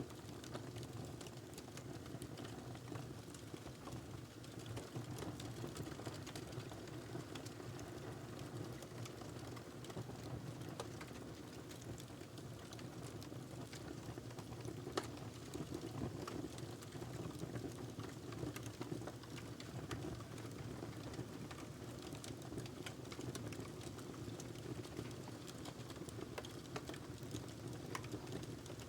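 Wood fire burning in a fireplace: a steady low rumble of flames under many small sharp crackles, with one louder pop about halfway through.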